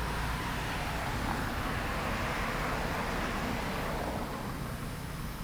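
A vehicle passing by on a road: a rushing noise that swells and then fades about four seconds in, over a low steady rumble.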